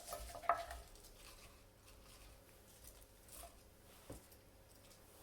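Fresh basil leaves rustling faintly as they are pressed and packed into a measuring cup, with a sharp tap about half a second in and a smaller one about four seconds in.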